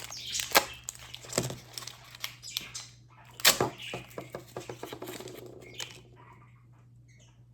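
Plastic toy packaging tube being opened and handled: scattered clicks, taps and rustles, with a few sharper snaps near the start and middle, then quieter fiddling near the end.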